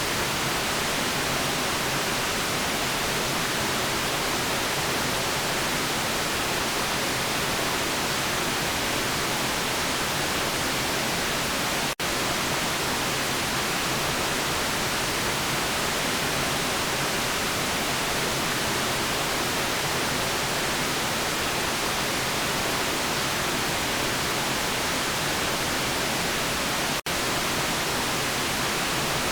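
Steady, unvarying white noise: a continuous electronic hiss, brighter toward the high end, with two split-second dropouts, one about halfway through and one near the end.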